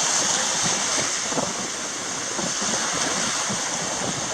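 Sea surf washing onto a sandy beach, a steady rushing noise, with wind buffeting the microphone.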